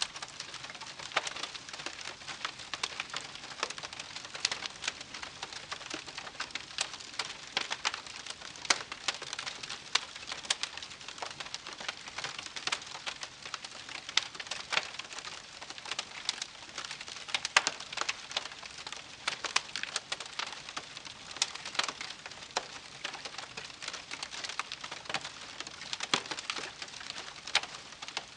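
Wood campfire crackling: a dense run of irregular snaps and pops over a soft hiss.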